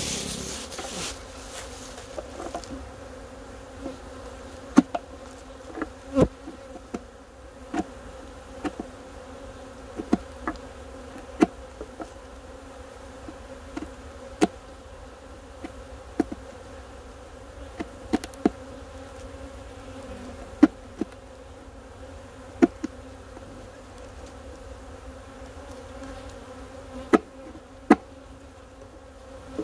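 Steady hum of a stirred-up honeybee colony flying around an opened hive, with a series of sharp knocks roughly every second or two from a hard tool working the wooden hive bottom.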